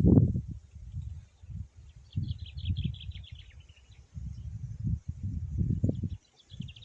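A small songbird sings a quick trill of rapid notes that falls in pitch, twice, over gusts of wind buffeting the microphone with low rumbles.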